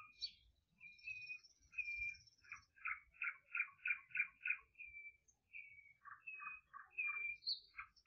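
A bird singing at night: short whistled notes mixed with fast runs of repeated notes, about four a second, and a few thin high notes.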